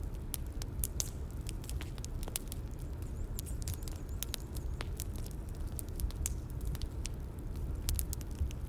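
Bonfire crackling: frequent irregular sharp pops and snaps over a steady low rumble.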